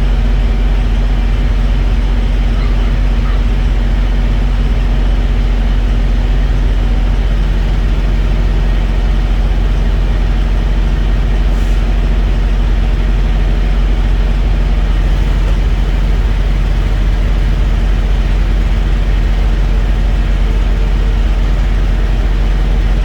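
Heavy diesel truck engine idling, a steady low rumbling hum whose pitch shifts slightly about seven seconds in.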